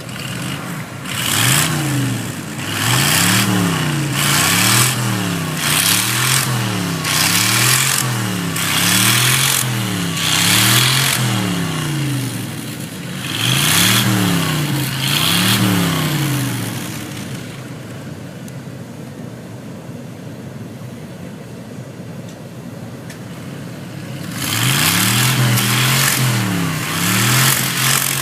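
A stuck truck's engine revving up and down over and over, about once a second, with a hiss of spinning tyres at each rev. The revving pauses for several seconds in the middle, then starts again.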